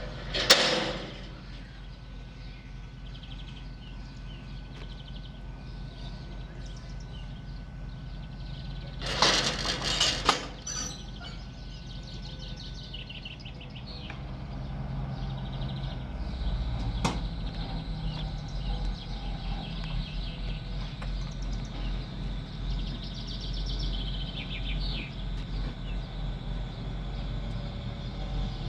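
Train at a station platform: a sharp bang just after the start, a burst of clattering about nine seconds in, and a low engine rumble that grows from about sixteen seconds on, under a steady high tone in the first half.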